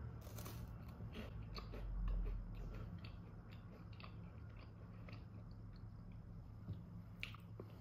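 Faint crunching of a crisp strawberry crêpe wafer biscuit being bitten and chewed: a run of small, irregular crackles.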